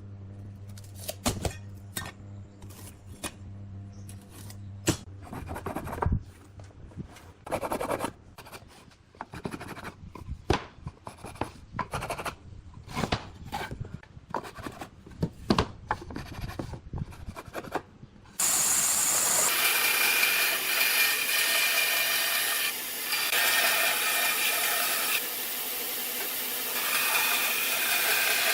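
Hand work on wood: scattered taps, knocks and short scraping strokes. About eighteen seconds in, a power tool starts and runs with a loud, steady whirring hiss.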